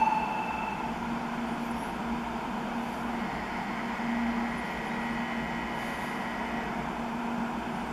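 700 series Hikari Rail Star shinkansen standing at the platform, its equipment giving a steady hum and whir with a faint low drone that swells and fades.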